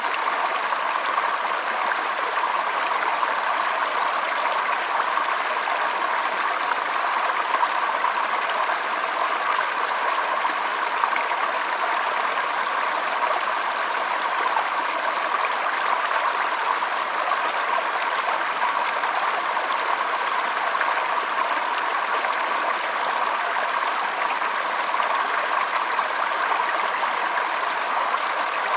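Shallow stream flowing: steady, even trickling and rushing of water.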